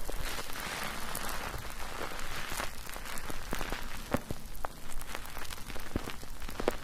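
Soap being lathered in a foaming mesh net: wet squishing and many small crackling pops of foam as the net is kneaded, with squelches scattered throughout.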